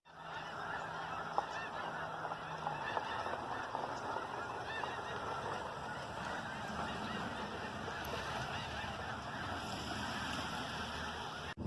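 A large flock of geese honking all at once: a dense, steady chorus of many overlapping calls with no single bird standing out. It cuts off abruptly near the end.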